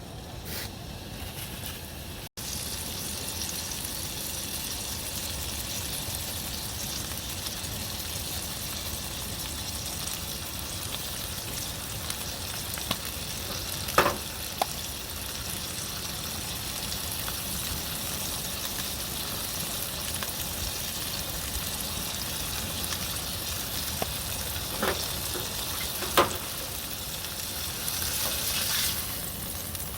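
Food sizzling steadily in a hot pan, with a few sharp clinks, most clearly about halfway through and twice near the end.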